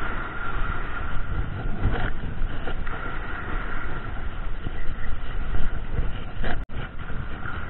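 Wind buffeting the action camera's microphone over the steady rush of surf, with a momentary cut-out near the end.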